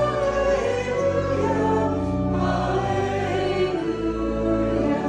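A church congregation singing a hymn in long held notes, with an organ holding a low bass line beneath.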